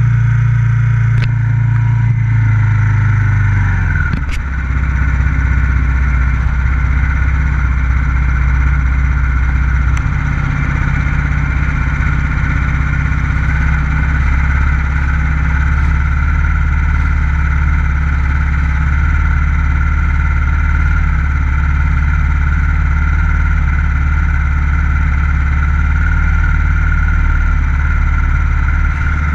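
On-board sound of a racing motorcycle's stock FXR150 engine running at a steady, loud note, which shifts lower about four seconds in and then holds. A couple of brief clicks sound in the first few seconds.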